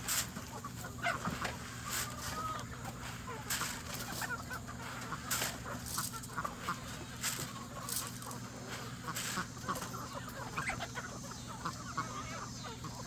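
A flock of chickens clucking and peeping in many short calls, with a sharp click or tap about every second or two and a steady low hum underneath.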